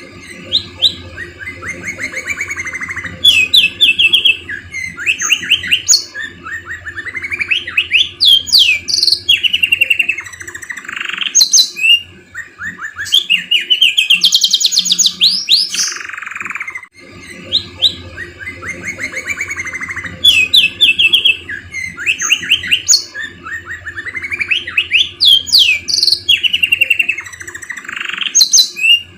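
Domestic canary singing a long, loud song of fast trills and rising and falling glides, a 'luxury' canary song laced with phrases learned from the murai (white-rumped shama). About halfway through, the same stretch of song starts over, and a low hum runs underneath.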